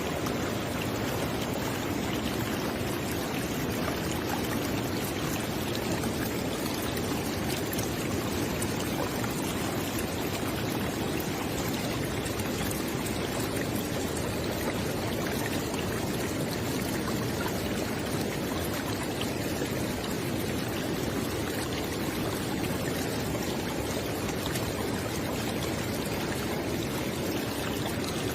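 River water flowing in a steady, unbroken rush, fullest in the low-middle range.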